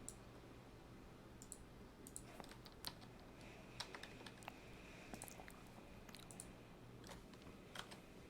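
Faint, irregular typing and clicking on a computer keyboard and mouse, about a dozen scattered clicks.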